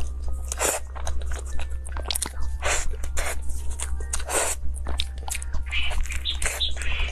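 Close-miked wet chewing and biting of soft, creamy durian mille-crêpe cake, with mouth noises coming in irregular bursts. A steady low hum runs underneath.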